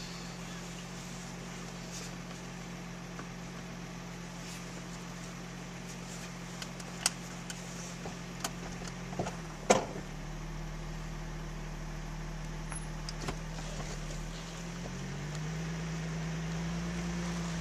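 Infiniti FX35's V6 running steadily as the SUV crawls along a dirt track, its hum rising slightly in pitch about fifteen seconds in. A few sharp clicks and knocks come over it, the loudest about ten seconds in.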